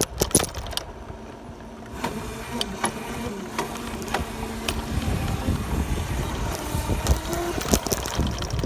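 Small dirt bike riding along, its motor humming under wind buffeting the microphone, with a few sharp knocks just after the start.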